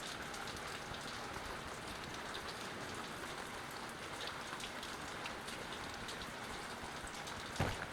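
Steady rain falling, with scattered drops ticking on a surface, as a severe thunderstorm passes; a single sharp knock near the end.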